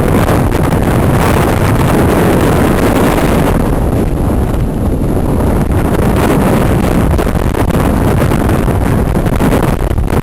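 Hurricane wind blowing hard across the microphone: a loud, continuous rush and rumble of wind noise that swells and eases slightly, with no let-up.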